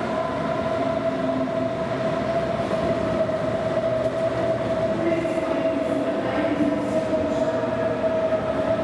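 DB Class 423 S-Bahn electric multiple unit running past along the platform: an even rumble of wheels on rails with a steady whine held through it.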